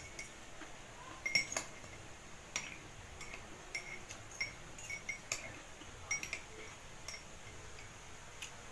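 Metal spoon and fork clinking against a white ceramic cup while eating: about a dozen light, irregular ringing taps, the loudest about a second and a half in.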